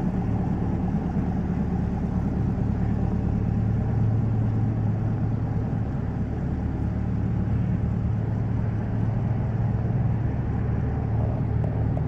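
C8 Corvette's V8 engine running steadily as the car rolls slowly past, its sound low and even without any revving.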